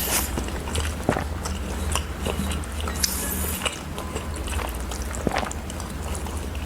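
Close-miked eating: a person chewing and biting food, with scattered wet mouth clicks and smacks and a couple of short hissy bursts, over a steady low hum.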